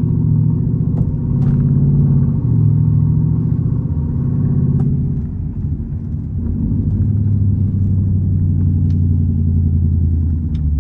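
Jeep Trackhawk's 6.2-litre V8, running without its supercharger, pulling as the Jeep is driven. The engine note holds steady in stretches and changes pitch several times.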